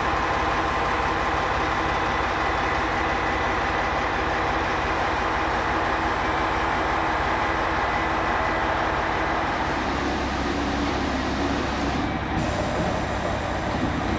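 Train running, a steady rumble with several even held tones; the low rumble changes about ten seconds in.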